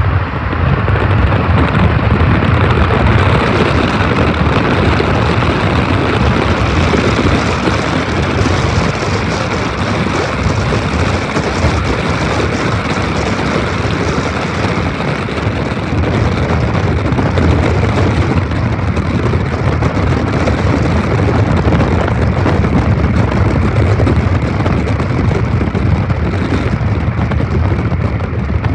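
Diesel locomotives idling: a steady low rumble under a loud, even noise that holds level throughout.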